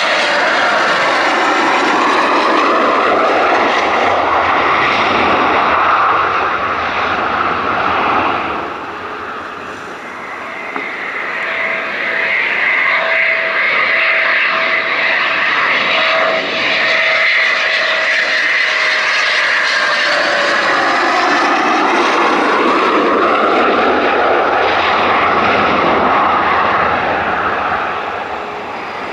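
Eurofighter Typhoon jet engines running loud as the jets fly past, the roar swelling and sweeping in tone, easing briefly about ten seconds in and again near the end. A thin whine drifts slightly down in pitch through the middle.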